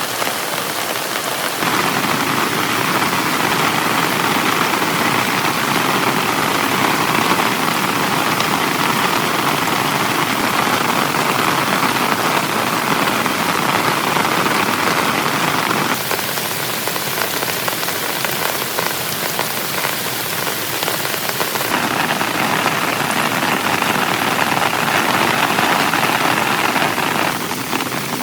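Heavy rain falling steadily on a tent, a dense even hiss whose tone shifts abruptly a few times.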